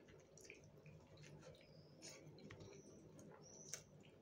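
Faint chewing of fried potatoes and fried egg: soft, scattered wet mouth clicks, with one slightly louder click near the end.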